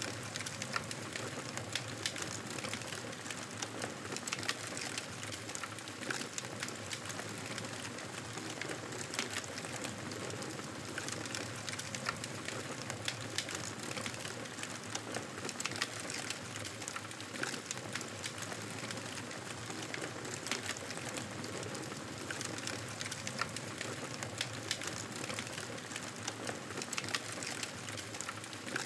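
Campfire burning steadily, with a constant hiss and frequent sharp crackles and pops from the burning wood.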